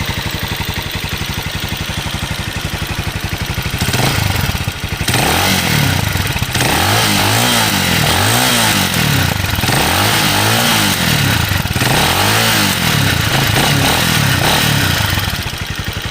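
Cleveland CycleWerks Ace 250's single-cylinder, air-cooled, carburetted 229 cc engine idling through its exhaust, then revved with a run of throttle blips, each rising and falling in pitch, before it drops back to idle near the end.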